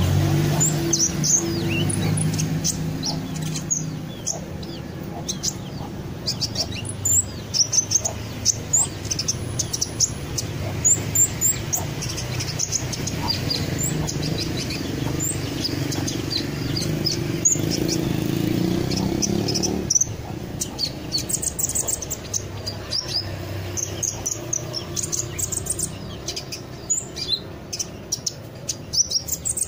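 Small songbird chirping busily, a rapid run of short, high chirps and twitters that keeps going throughout. A low steady hum sits underneath and cuts off about two-thirds of the way through.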